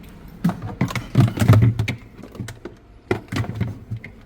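A quick, irregular series of clicks and knocks, loudest about a second and a half in.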